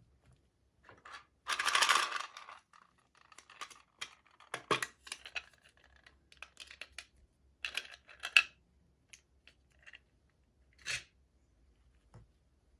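Small toy packaging being handled and opened: a longer rustle about two seconds in, then scattered rustles and sharp little clicks of plastic pieces, the sharpest near the middle.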